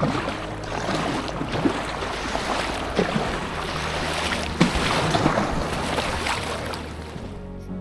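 Water rushing and splashing around a packraft on a river, with a few sharper splashes standing out.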